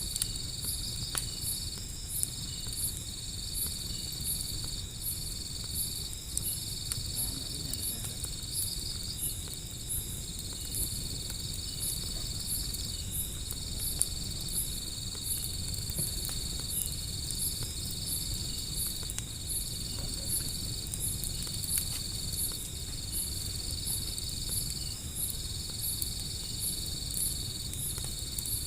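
Insect chorus: a shrill, steady trill in long phrases broken by short gaps, over a higher chirping pulse about twice a second. Beneath it sit a low rumble and scattered sharp pops, the crackle of a wood fire.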